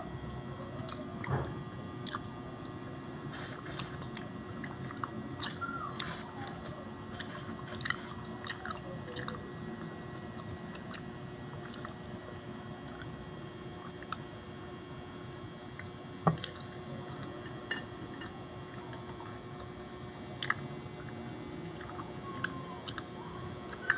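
Close-up chewing and mouth sounds of someone eating barbecue, with scattered small clicks and a few faint sliding whines.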